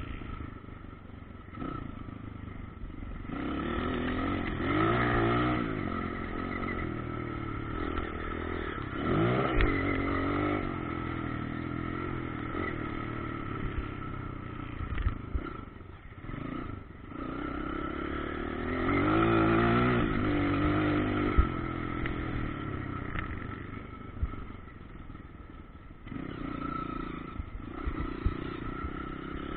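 Motocross bikes running on the track, their engines revving up and down as they pass. The pitch rises and falls in several swells, loudest a few seconds in, around a third of the way through and about two-thirds of the way through.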